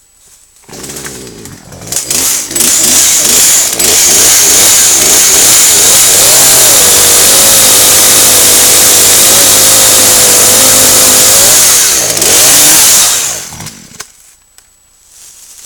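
Poulan P3314 33cc two-stroke chainsaw with a 14-inch bar. It comes in about a second in, runs unevenly, then revs to full throttle and holds there for about eight seconds while cutting a thin log, its pitch wavering under load. It winds down and stops about fourteen seconds in.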